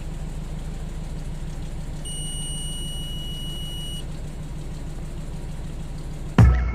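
Nissan Tiida four-cylinder petrol engine idling steadily with a misfire. About two seconds in, a steady high-pitched electronic beep sounds for about two seconds. Music starts abruptly just before the end.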